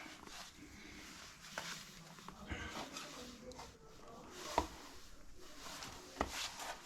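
Faint rustling and scattered light knocks, the loudest about four and a half seconds in, as a dust sheet is fitted back over a fireplace opening.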